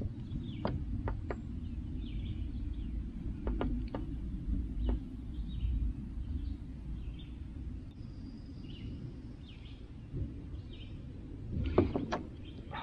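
Small birds chirping faintly in the background over a low steady rumble, broken by a few light knocks in the first seconds and a louder cluster of knocks near the end.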